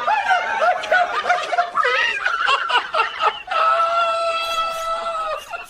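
A person giggling and laughing in quick repeated bursts, then a steady, high held vocal tone lasting about two seconds near the end.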